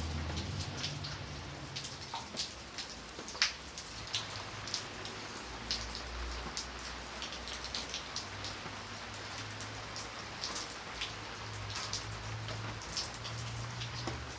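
Steady rain with many separate, close raindrops ticking sharply on a surface, over an even patter. A low hum runs underneath.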